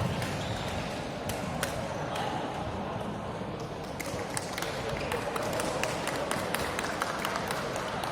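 Badminton rally: irregular sharp clicks of rackets striking the shuttlecock, over a steady murmur of spectators' voices.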